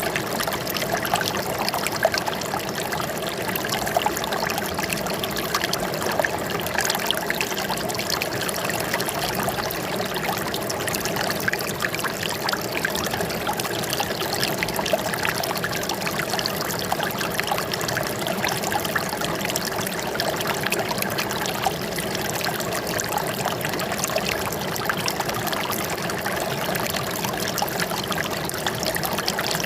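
Running water trickling and splashing steadily, a dense, even patter of small droplets and ripples.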